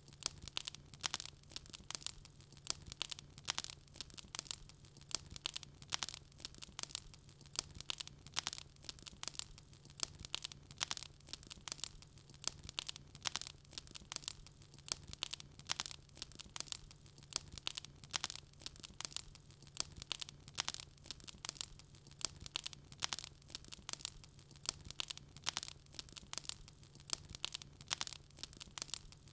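Wood fire crackling in a fireplace: a constant stream of rapid, irregular pops and snaps from the burning logs, over a faint steady low hum.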